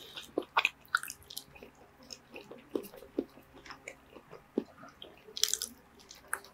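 Close-miked chewing and wet mouth sounds of someone eating poke, with scattered small clicks and scrapes of a plastic fork against a plastic tub.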